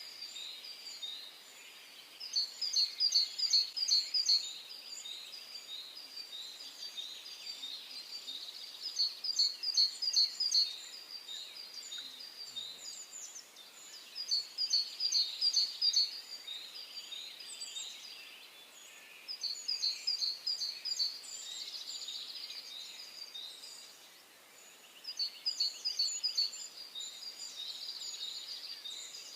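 Songbirds singing: one bird repeats a short song of rapid high notes about every five to six seconds, over a softer, steady chatter of other birds.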